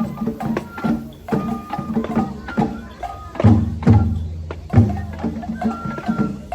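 Japanese festival hayashi music: deep drum strokes in an uneven rhythm, with a flute playing short held high notes over them.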